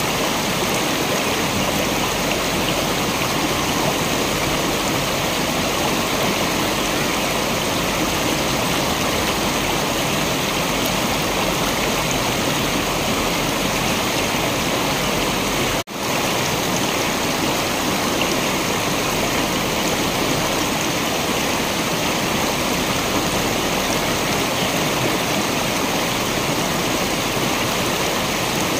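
Waterfall water rushing in a steady, even flow. The sound cuts out for an instant about halfway through, then resumes unchanged.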